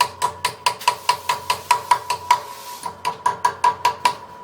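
Small hammer tapping a thin sheet-metal part down to set a bend that keeps springing back. The taps are light, quick and even, about five a second, with a metallic ring and a brief pause about halfway.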